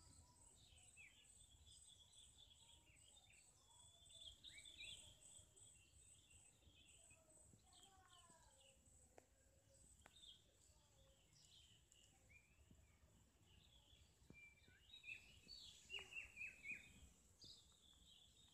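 Faint birds chirping and twittering, with a run of short falling whistles about eight seconds in and a quick cluster of louder chirps near the end.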